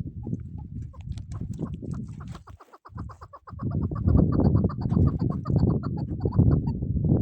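Chukar partridge calling: a fast run of repeated chuck notes, about eight a second, starting about three seconds in, over a loud low rumble.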